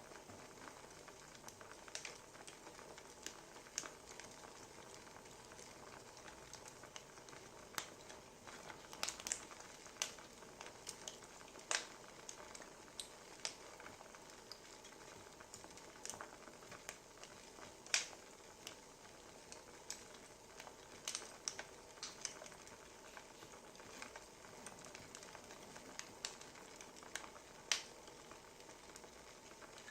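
Wood fire crackling: a steady low hiss with irregular sharp pops and snaps from the burning logs.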